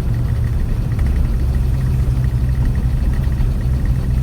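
Chevrolet 307 small-block V8 running steadily while the car is driven, with a faint, regular valve-train tick over the engine note. The owner puts the tick down to valves that need tightening a little more.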